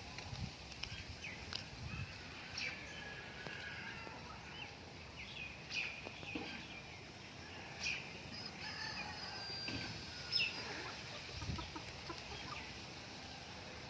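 Birds calling: short sharp chirps every two or three seconds, a stretch of high twittering a little past the middle, and a few low calls.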